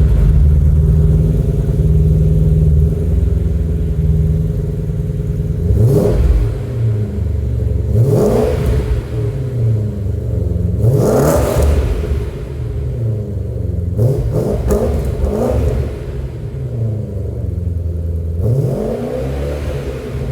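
2015 Subaru WRX STI's turbocharged 2.5-litre flat-four running on an aftermarket exhaust, holding a steady note and then revved in several sharp throttle blips, each rising and falling quickly.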